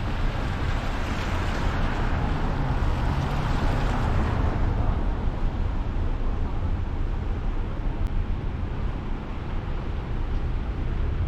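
Vehicle driving on the road, heard from inside: a steady low rumble with tyre hiss that swells for a few seconds near the start and then eases.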